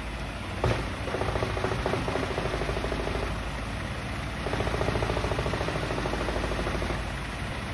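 Engine of a large log-grinding machine running with a rapid, even pulse, louder in two stretches.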